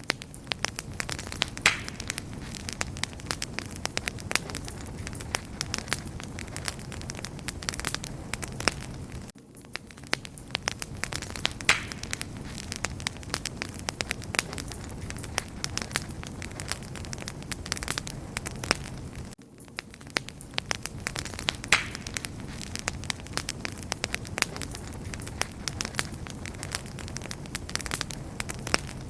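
Campfire crackling: dense, irregular sharp pops and snaps over a steady low rumble of the flames, with two brief dips in level.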